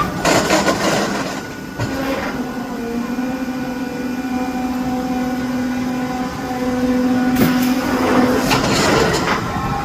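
Boomerang roller coaster running: a rattle from the track at the start and again near the end, with a steady mechanical hum from the ride's machinery in between.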